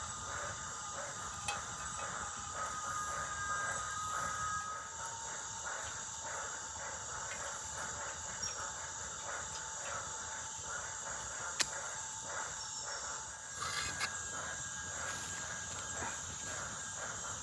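Insect chorus: a steady high cricket trill with a few thin, held whistling tones and a fast pulsing chatter beneath. A single sharp click sounds about eleven and a half seconds in.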